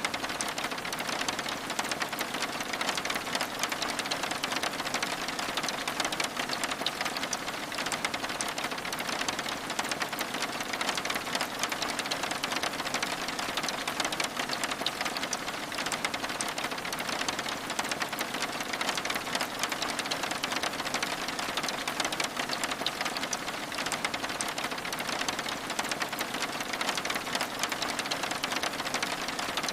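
Steady rain, a dense, even patter of countless small drop ticks on window glass.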